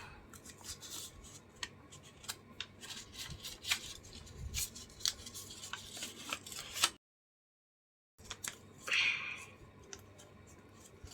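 Small handling sounds of paper and craft materials: a scatter of light clicks and rustles, with a brief rustle about nine seconds in. The sound drops out entirely for about a second around seven seconds in.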